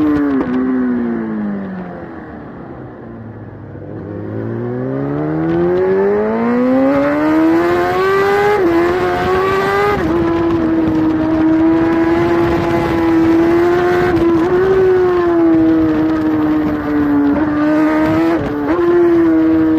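Kawasaki superbike's inline-four engine heard from onboard at racing speed: revs fall away under braking to a low, quieter point a few seconds in, then climb hard as it accelerates. It then holds high revs under full throttle, with brief dips in pitch at each upshift.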